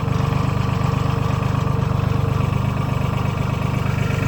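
Tractor engine running steadily, a low, rapid, even beat.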